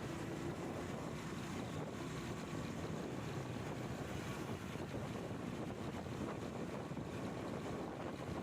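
Wind buffeting the microphone of a moving motorcycle, a steady rushing noise with the bike's engine running faintly underneath.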